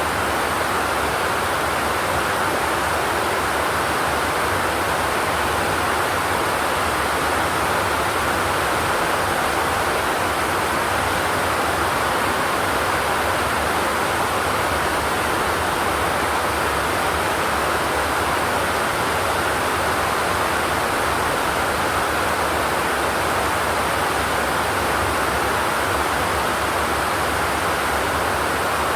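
Steady rain on a zinc roof: an even, unbroken hiss with no thunder.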